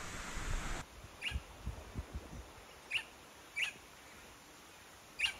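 A bird calling in short high chirps, four of them spread over a few seconds, with a few soft low knocks early on. A steady hiss stops abruptly just under a second in.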